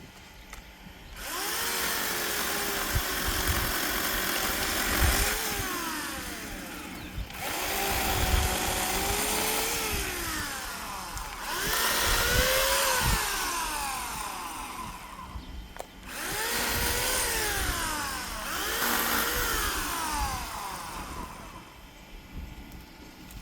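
Electric chainsaw cutting wood in four runs of about four to six seconds each, with short pauses between; the motor's pitch dips and rises again within each run as the chain works through the cut.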